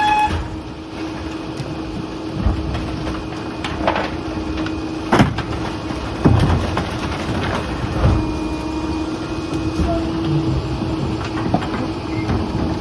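Rear-loading garbage truck running with a steady drone while debris is loaded. Several knocks and bangs sound over it, the loudest about five seconds in and another just after six seconds.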